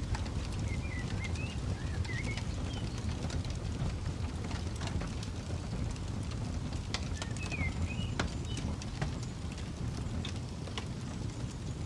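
Campfire crackling with scattered sharp pops over a low steady rumble. A bird calls with short, wavering chirp phrases twice, near the start and again about seven seconds in.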